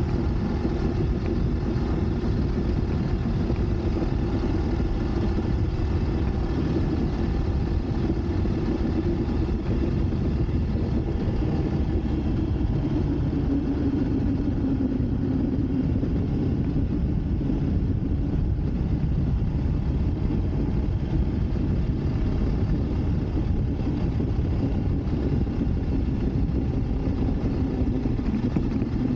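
Motorcycle engine running steadily while riding along a road, its hum drifting slightly in pitch, under a low rush of wind noise.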